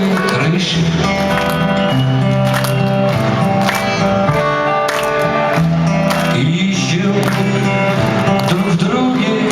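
Live rock band music in an arena, with held instrumental notes over a steady bass line.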